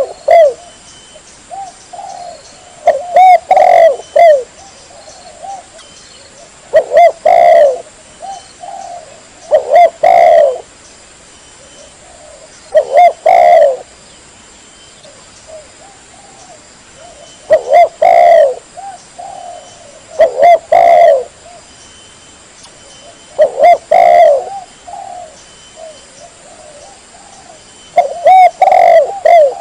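Spotted dove (tekukur) cooing loudly, one call phrase after another, about every three to four seconds, with softer coos between some phrases.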